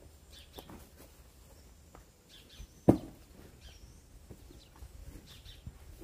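Small birds chirping off and on in short high calls, with one sharp knock about three seconds in.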